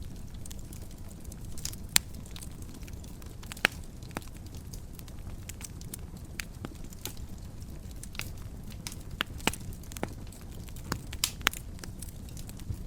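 Wood fire crackling: irregular sharp pops and snaps over a low steady rumble of the burning fire, with a few louder pops.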